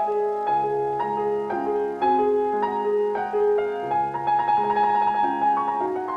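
Piano music: a steady, flowing run of notes over a slower bass line.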